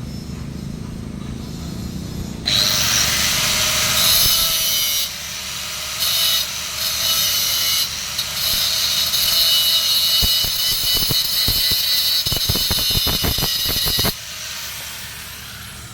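Angle grinder grinding on steel pipe, a loud high-pitched whine with a hiss. It starts sharply about two and a half seconds in, eases off briefly twice, and stops suddenly near the end.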